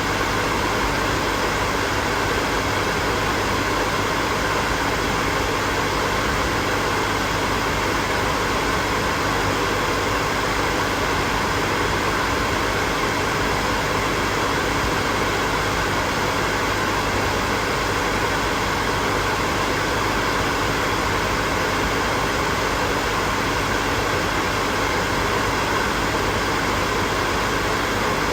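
Hair dryer running steadily: an even, unbroken rush of blown air with a faint motor hum beneath it.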